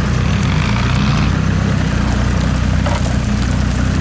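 Land Rover Discovery 2's Td5 five-cylinder turbodiesel running steadily at low revs, heard from inside the cab, with a single short click about three seconds in.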